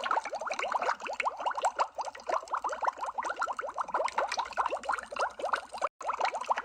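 Continuous underwater bubbling sound effect: a dense stream of small bubbles, each a short upward-gliding blip, many per second. It cuts out for a split second near the end and resumes, as at a loop point.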